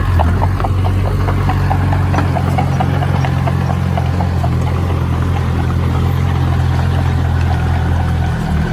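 Engine of a heavy construction machine running steadily with a constant low drone. A series of light ticks is heard over the first few seconds.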